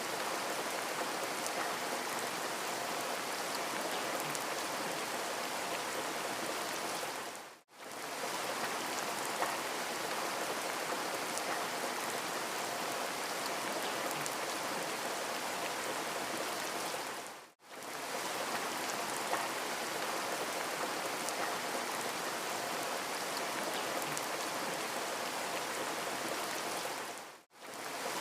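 Steady rain falling, an even hiss with faint scattered drop ticks. About every ten seconds the sound fades out for a moment and comes straight back in.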